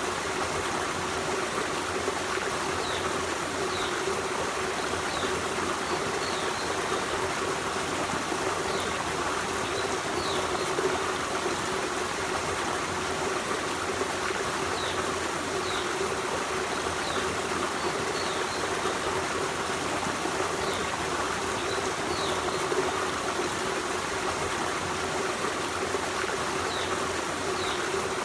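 Forest stream running steadily over rocks, an even rush of water with a trickling edge. Faint short high notes recur every second or two above the water.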